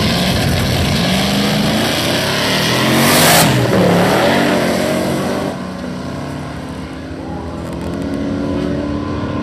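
Car engine at hard throttle on a drag strip, its pitch sweeping, loudest about three seconds in as it goes by, then falling away sharply about five and a half seconds in, with an engine still running more quietly after.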